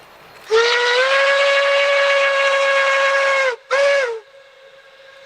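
Steam locomotive whistle, from K-27 Mikado 463, blowing one long blast of about three seconds and then a short one. Its pitch lifts slightly as each blast opens and sags as it closes.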